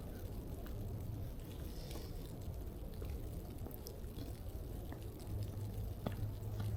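Footsteps in snow, with scattered soft crunches over a low steady rumble that grows stronger near the end.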